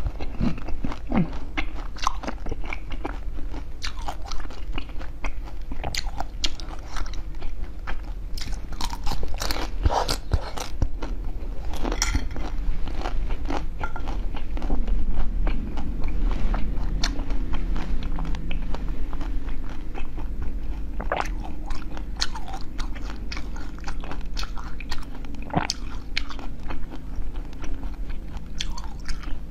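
A person biting and chewing food close to the microphone, with many irregular crisp clicks and crunches.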